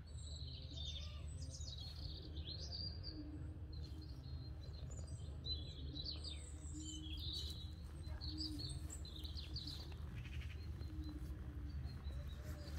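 Small birds chirping and twittering, many short overlapping calls, over a low steady background rumble.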